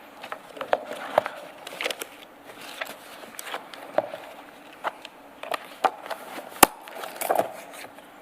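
Paper handling as pages are leafed through in a file: scattered rustles and light clicks and knocks, with one sharp knock about six and a half seconds in.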